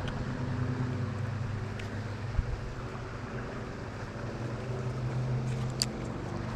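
Steady rush of moving creek water with wind on the microphone and a low, even hum beneath it. Two sharp clicks come about two and a half and six seconds in.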